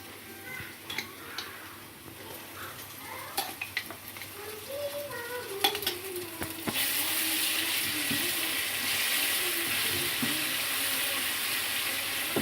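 Spices and ginger-garlic paste frying in oil in a cooking pot. A few utensil clinks come first, then about seven seconds in a loud, steady sizzle starts suddenly and keeps going.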